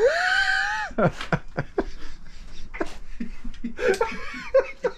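Men laughing and calling out: a loud rising vocal cry at the start, then laughter and short exclamations, with scattered clicks and knocks.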